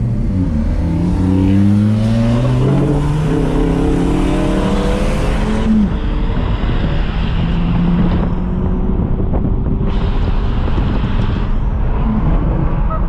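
Car engine accelerating, its pitch climbing for the first few seconds, then settling to a steady drone at cruising speed, with road and wind rush that fades about halfway through.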